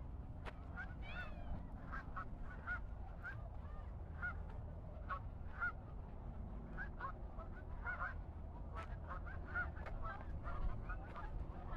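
A flock of geese honking, many short calls coming several times a second and overlapping, over a low steady rumble.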